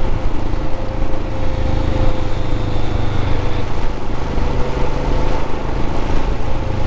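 Royal Enfield 411 cc single-cylinder motorcycle engine running at a steady pace under way, mixed with heavy wind rush on the microphone.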